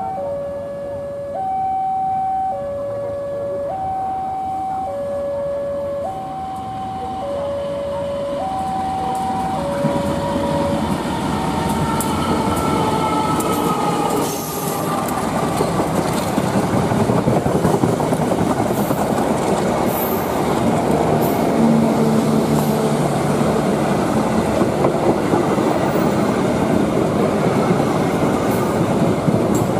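A level crossing warning alarm sounds a steady two-tone signal, alternating high and low about every second, warning of an approaching train. It stops about ten seconds in. A CC 201 diesel-electric locomotive and its passenger coaches then pass close by, and the engine and wheel noise swells into a loud rumble with the clickety-clack of the coaches.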